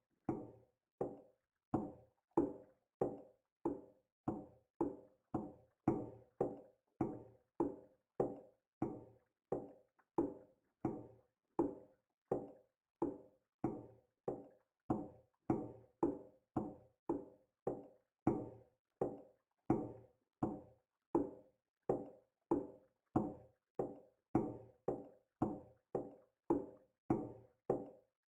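A hollow knock repeating at an even pace, a little under twice a second, each knock dying away quickly before the next.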